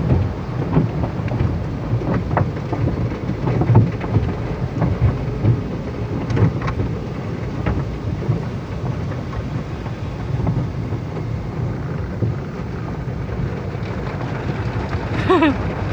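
Automatic car wash spraying water onto the car, heard from inside the cabin: a steady rushing rumble with many small knocks on the body.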